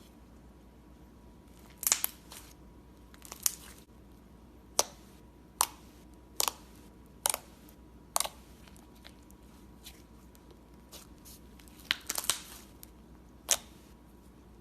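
Slime being pressed and squeezed by hand, giving sharp, crisp crunching pops about once a second, with a pause of a few seconds after the middle and a small cluster near the end.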